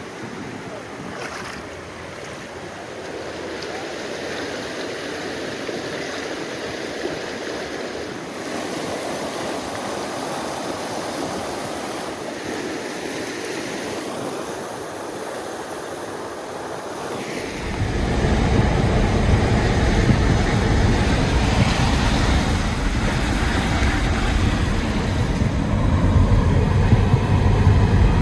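Steady rushing of a small stream's flowing water. About two-thirds of the way through, a much louder low rumble cuts in abruptly and continues.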